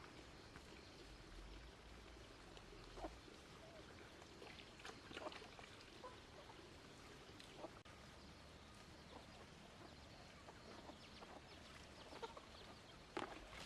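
Near silence: chickens clucking faintly, with a few light taps and knocks scattered through, the loudest near the end.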